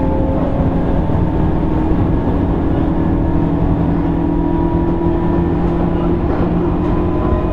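Running sound inside a JR East 205 series 600 electric multiple unit motor car under way on the rails: a steady rumble of wheels and running gear, with a steady low hum.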